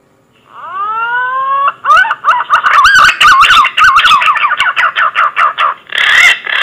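Punai green pigeon call, as played for luring: a rising whistle, then a quick run of wavering, warbling whistled notes, ending in two louder, rougher notes.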